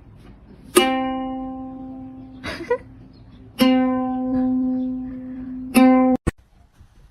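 One musical note of the same pitch sounded three times, a few seconds apart, each ringing and slowly fading; the last is cut off suddenly. A short rustle comes between the first two.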